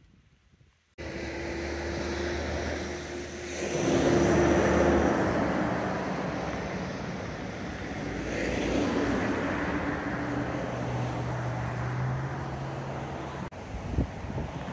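Engine and road noise of passing traffic. It starts abruptly about a second in and swells twice, around four seconds in and again near nine seconds.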